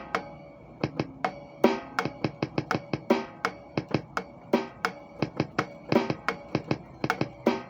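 A drum kit being played freely: strikes on drums and cymbals with ringing, sparse near the start and then a busier stream of hits.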